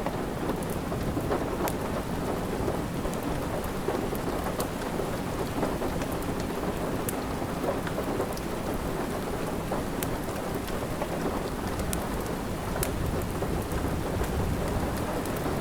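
Steady rain with a low rumble underneath, and the sharp, scattered pops and crackles of a wood fire burning in a fireplace.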